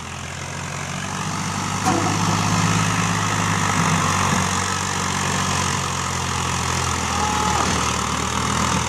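Tractor engine running steadily, getting louder over the first two seconds and then holding at a high level, as the stuck tractor is worked to pull free.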